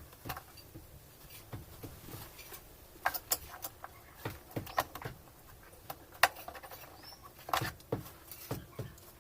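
Irregular light clicks and knocks of parts and tools being handled while a washing machine is taken apart, with small clusters of taps and one sharper click about six seconds in.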